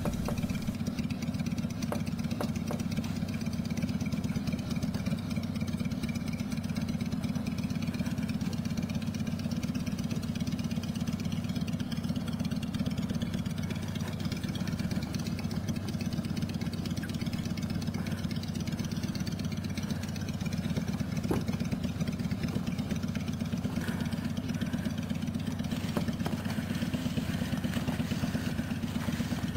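A motor running steadily with a low, even hum that does not change pitch.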